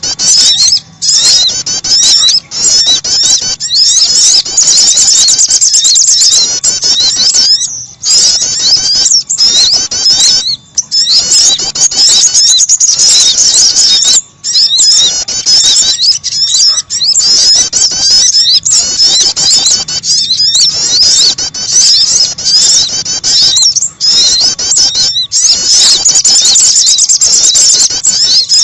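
Recorded calls of small songbirds played as a trapping lure (suara pikat) for sogon and prenjak (prinia): rapid, high, dense chirps and trills, nearly continuous with short breaks.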